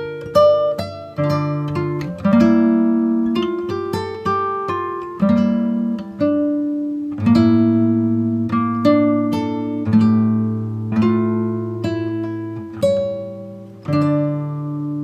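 Background music: acoustic guitar playing a slow fingerpicked tune, each note plucked and left to ring.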